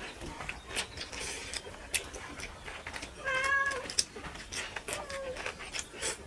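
A cat meows once, a clear call about three seconds in, with a fainter short meow about two seconds later. Underneath, steady clicks and smacks of eating.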